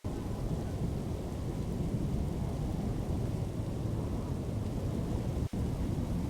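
Storm noise: a loud, steady deep rumble with rain, starting abruptly and dropping out for an instant about five and a half seconds in.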